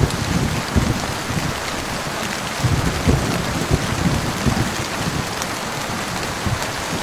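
Steady heavy rain hissing, with low thunder rumbles coming and going, strongest about three seconds in.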